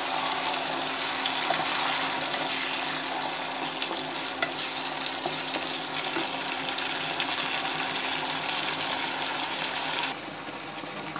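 Sauce sizzling as it hits a hot wok of stir-fried vegetables, with the scrape and light taps of a wooden spatula stirring it through. The sizzle eases off about ten seconds in, and a faint steady low hum runs underneath.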